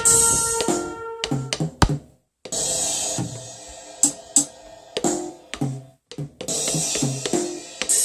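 Ion electronic drum kit played through its sound module: a cymbal crash followed by a few drum strikes, three times over, with a brief silence before the second and third crash.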